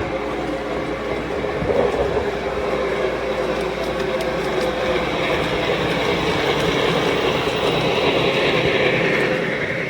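Lionel O-gauge Western Maryland 1309 articulated Mallet model steam locomotive running on the layout track, a steady rumble of motor and wheels on three-rail track that grows a little louder toward the end.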